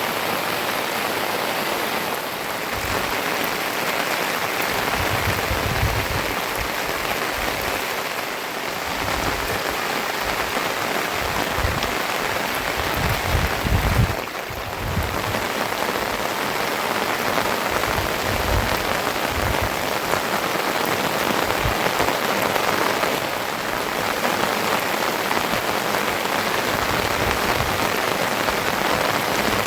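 Steady rain falling, a dense even hiss, with occasional low rumbles coming and going, the strongest about halfway through.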